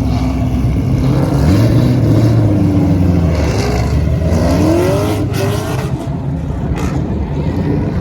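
Car engines revving and accelerating, with several rising sweeps in pitch as they wind up through the revs over a steady background of engine noise.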